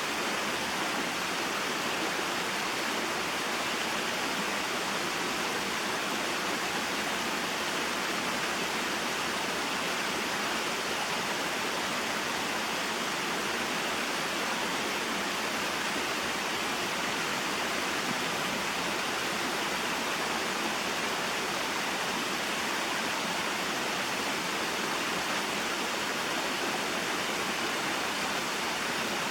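A small waterfall and mountain stream flowing: a steady, even rush of water with no breaks or changes.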